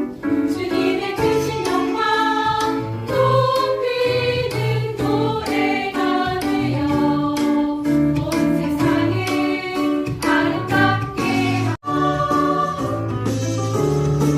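A group of children singing together with musical accompaniment, breaking off for an instant about twelve seconds in.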